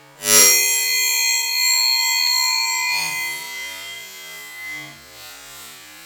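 A sharp metallic strike, then a bright ringing of several high tones together that fades away over about three seconds. A thrown steel knife hitting hard, as the handle of one old throwing knife breaks off.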